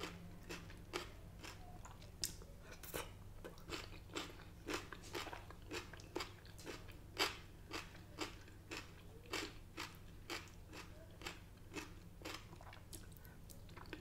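Close-up chewing of crispy fried food, a crunch about twice a second, steady and unbroken.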